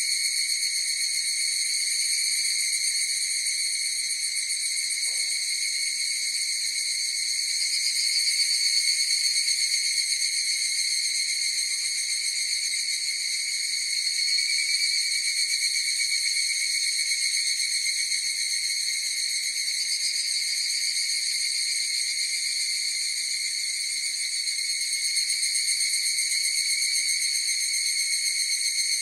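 Chorus of higurashi (evening cicadas) calling: a continuous high-pitched ringing with a fine pulsing texture that swells and eases every few seconds.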